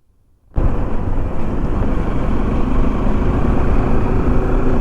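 Motorcycle being ridden at a steady speed: engine running under a dense rush of wind and road noise, which cuts in about half a second in after a brief silent gap.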